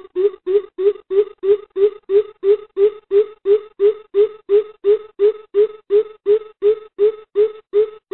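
Greater coucal calling: a long run of deep, evenly spaced hoots, about three a second, loud and steady in pitch.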